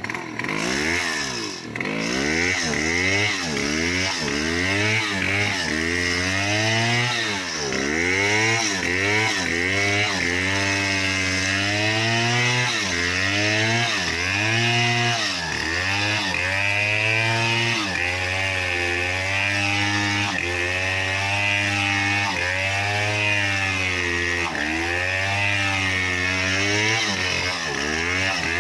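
Chainsaw running hard while cutting a tree, its engine pitch rising and dipping over and over, about once a second, as it works into the wood. It revs up in the first couple of seconds.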